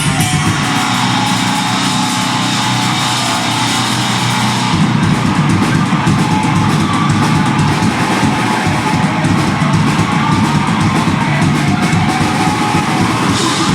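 Live deathgrind band playing at full volume: distorted electric guitars, bass and drum kit in one dense, unbroken wall of sound.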